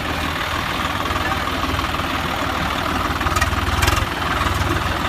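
Tractor diesel engine running steadily at low speed, with an even low pulsing and a brief dip about four seconds in.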